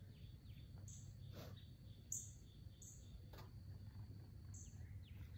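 Faint bird chirps, a handful of short high calls and quick downward notes spread through, over a low steady hum, with a couple of soft clicks.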